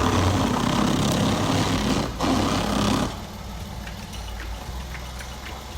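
A vehicle engine running steadily under a broad hiss, with a brief dip about two seconds in; about three seconds in the level drops and only a quieter hum with a few faint ticks remains.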